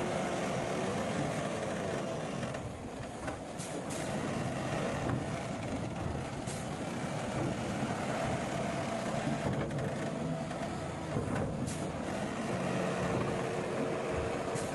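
Heavy diesel earthmoving machinery, dump trucks and a bulldozer, running steadily, with several short sharp hisses or clanks scattered through.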